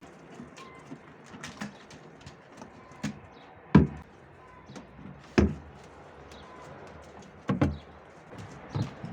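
A series of about six knocks and thumps from objects being handled and set down during household cleaning, the two loudest in the middle, over a steady background hiss.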